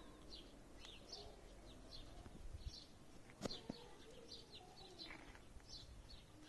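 Faint chirping of small birds in the background, a few short high chirps a second, with one sharp click about three and a half seconds in.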